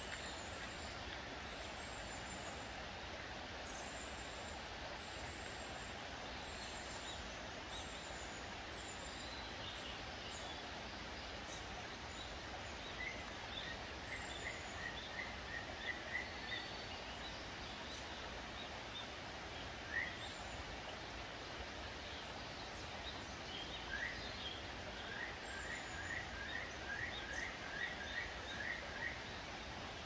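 Wild birds calling over a steady background hiss. Thin high notes repeat through the first ten seconds or so, and in the second half there are two quick series of short rising chirps, the second one longer.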